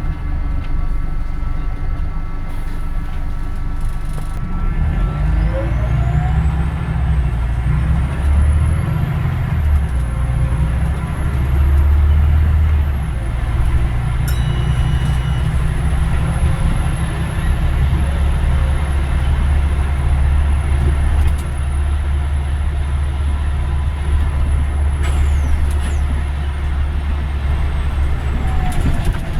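Scania Omnidekka double-decker bus engine running under way, a heavy low drone with a high whine that climbs in pitch as the bus picks up speed, holds, and drops away near the end.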